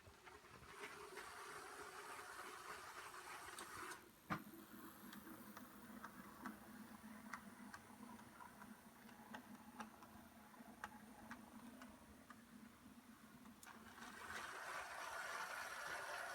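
Model train running on a layout: a small electric motor's steady hum and wheel noise, with light clicks about twice a second, as from wheels over rail joints. There is one sharper click about four seconds in, and the running noise is louder near the start and again near the end.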